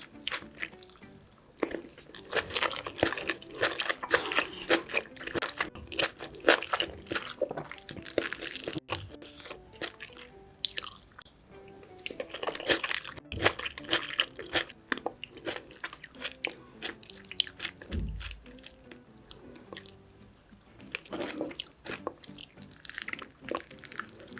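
Close-miked eating: wet chewing and crunching of braised kimchi and pork rib meat, coming in bouts of quick crackly bites. A single dull thump about three quarters of the way through.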